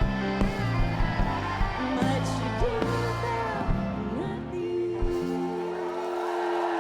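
Live rock band playing with singing and drums. The drums stop about five seconds in, the song ends on a long held note, and the crowd starts cheering near the end.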